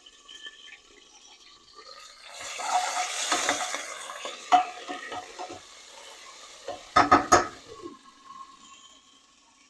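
Spoon stirring food in a hot pot on the stove, with a rush of sizzling and scraping about two seconds in. About seven seconds in come a few sharp clanks of the spoon against the pot.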